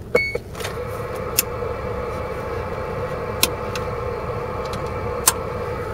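A short electronic beep, then a steady hiss and hum with a few faint clicks, from a CB radio set-up in an idling truck.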